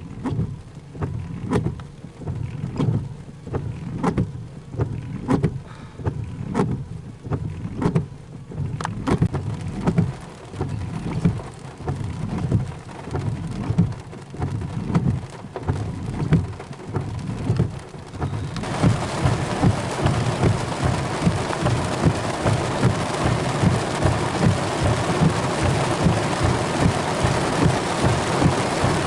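Rain: at first scattered heavy drops striking a surface one by one over a low rumble, then about two-thirds of the way through it suddenly becomes a steady downpour.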